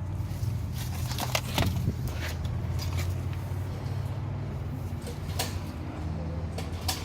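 Steady low mechanical hum with scattered light knocks and clicks, a few of them close together between one and two seconds in.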